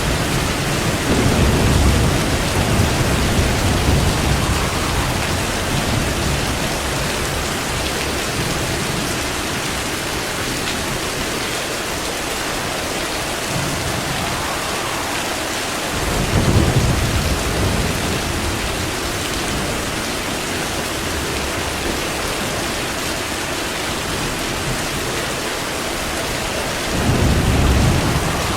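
Steady rain pouring down, with rolls of thunder rumbling low: one at the start that dies away over several seconds, another about halfway through, and a third near the end.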